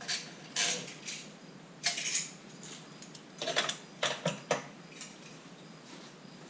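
Irregular metallic clinks and clatter of tools and metal parts being handled, about a dozen short knocks spread unevenly, several bunched together near the middle.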